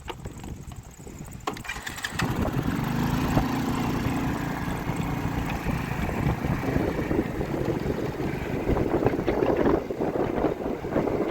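An engine running, coming in loudly about two seconds in, with a rough rumble of wind on the microphone later on.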